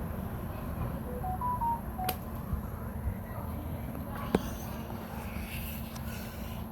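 Sharp AH-AP9MHL air conditioner sounding a short tune of five electronic beeps that climb and then fall in pitch, over a steady low hum. A click follows about two seconds in, and a sharper click comes a little past four seconds.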